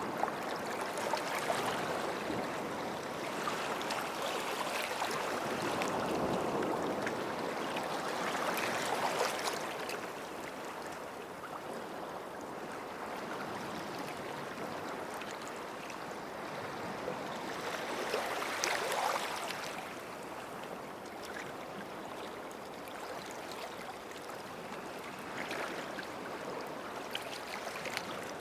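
Small waves washing onto a sandy shore: a continuous wash of surf that swells and eases, fuller in the first third and surging again about two-thirds of the way through.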